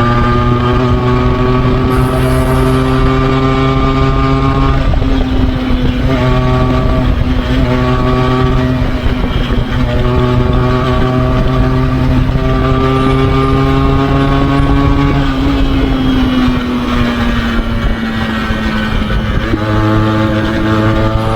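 Yamaha RX 135's two-stroke single-cylinder engine running under way, its pitch climbing slowly through the gears with breaks for gear changes about five and ten seconds in. Near the end it drops off as the bike slows, then picks up again.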